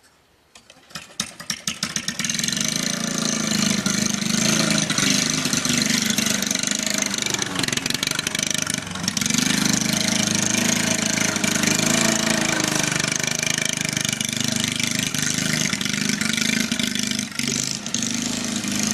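Push mower's 148cc single-cylinder engine starting up, catching within about two seconds, then running loudly through a 2-inch exhaust pipe and truck exhaust tip. It stops abruptly at the very end.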